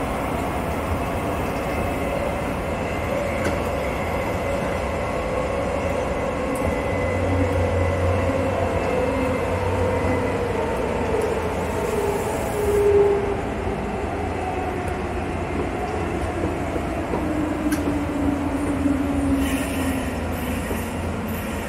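JR West electric local train running along the track: a steady rumble of wheels and rails, with a faint motor whine whose pitch slowly falls, twice.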